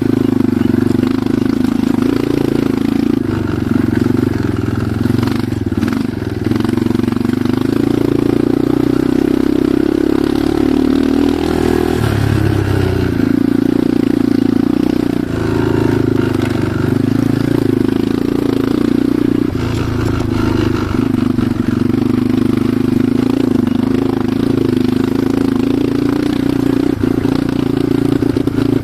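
Enduro motorcycle engine running as the bike is ridden, the engine note shifting with the throttle a few times.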